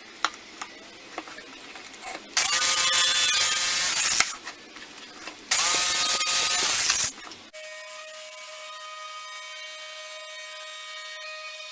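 Power drill boring holes through a wood plate in two bursts of about two seconds each, the motor spinning up at the start of each, after a few light clicks. A faint steady hum of several held tones follows.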